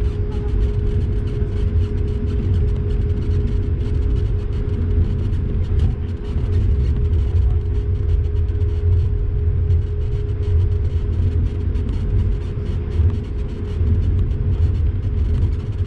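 Airbus A220-300 cabin noise while taxiing after landing: a steady low rumble from the jet engines at low power and the rolling airframe, with a steady hum.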